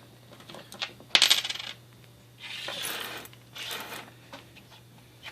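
Silver coins clinking and jingling as they are handled and pulled out, with a dense burst of jingling about a second in and a few lighter clicks. Around three to four seconds in there is shuffling noise as they are moved about.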